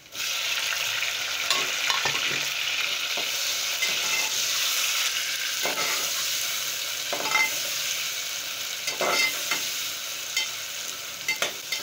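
Chopped tomatoes sizzling as they go into hot oil with lightly browned onions in an aluminium pot, a steady frying hiss that starts at once and eases a little near the end. A perforated metal spoon stirring them scrapes and clinks against the pot about half a dozen times.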